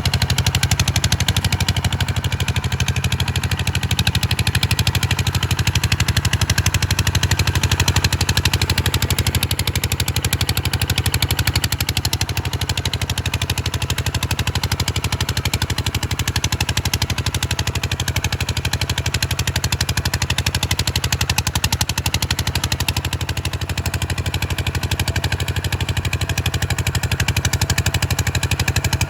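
Kubota RT140 single-cylinder diesel tractor engine running steadily with a rapid, even beat.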